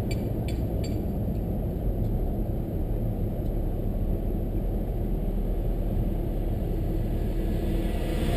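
Steady low rumble of engine and road noise heard from inside a moving car driving at an even pace, with a few faint clicks in the first second.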